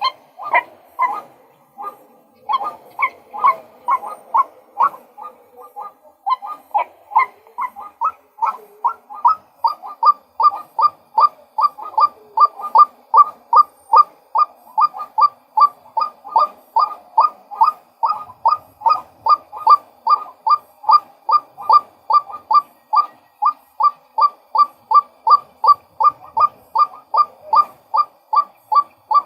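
Male white-breasted waterhen calling: a long run of short, repeated calls, about two to three a second. The calls are less regular for the first eight seconds or so, then settle into a steady, even rhythm.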